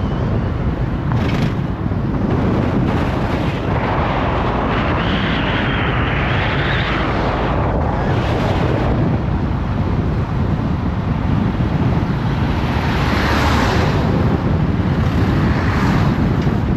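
Wind buffeting the microphone from a moving vehicle, over a steady rumble of road and engine noise, with a rushing hiss swelling up twice.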